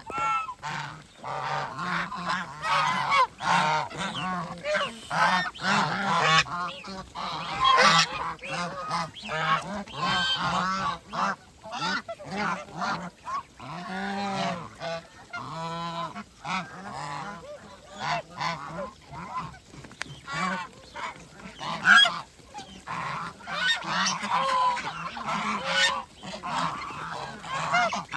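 A flock of domestic geese honking and calling, many voices overlapping with hardly a pause.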